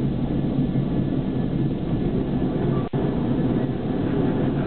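A miniature park railway train running steadily, heard from inside the driver's cab as a continuous low rumble. The sound cuts out for an instant about three seconds in.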